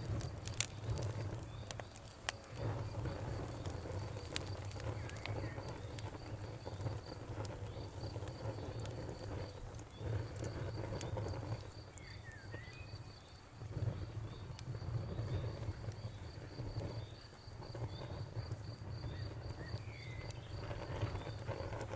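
Campfire wood crackling with scattered sharp pops over a low rumble, with crickets chirping in a steady pulsing trill. A bird gives a few short chirps about halfway through and again near the end.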